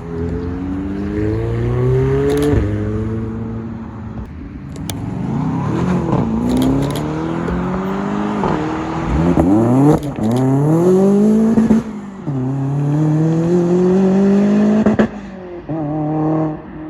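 Sports car engine accelerating hard, its pitch climbing and then dropping several times as it shifts up through the gears.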